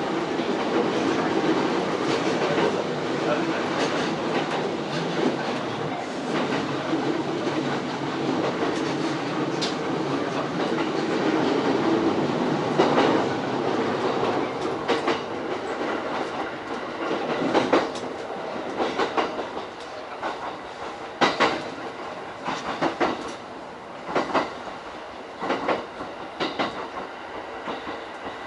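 E231 series electric train running with rail clicks and rolling noise, easing to a stop about halfway through. After that it is quieter, with scattered sharp clicks and knocks.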